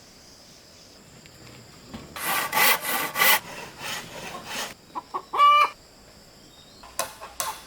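A hand saw cutting wood in several quick strokes, then fainter strokes. A chicken gives one short call, and sharp knocks begin near the end.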